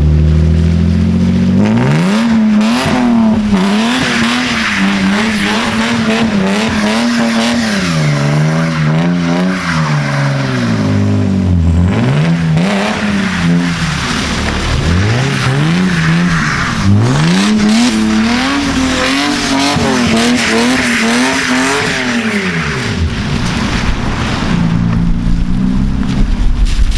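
A car doing a burnout: the engine is revved hard, its pitch rising, holding flat at the top and dropping again many times over, with tire squeal underneath. The revving stops a few seconds before the end, leaving a low rumble.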